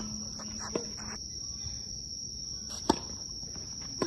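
Tennis ball struck by rackets in a rally: sharp pops of racket on ball, a light one just under a second in, a loud one at about three seconds and another at the very end. A steady high-pitched insect drone continues throughout.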